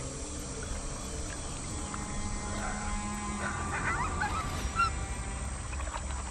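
Wolves whining and yipping, a cluster of short high squeaks in the middle, over a steady low background.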